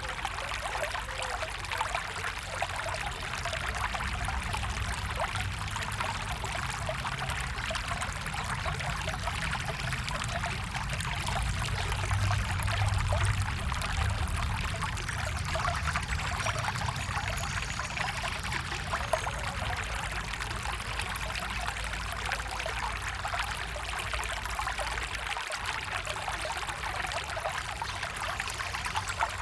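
Water of a stream running and trickling over rocks, a steady rushing with a fine splashing texture and a low rumble underneath.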